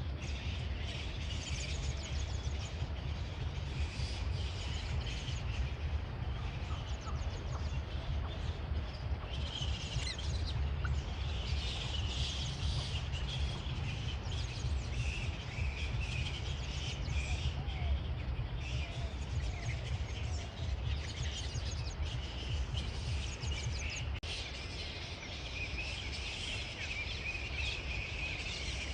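Several birds chirping and singing continuously, many short calls overlapping, over a steady low rumble.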